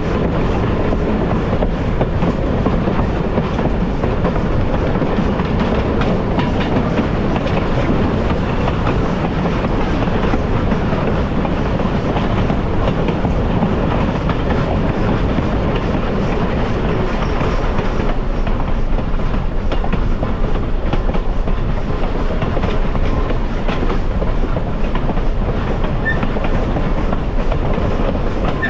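Heritage passenger train running steadily along the track, heard aboard: a continuous rumble of rolling wheels and rail noise with small clicks throughout.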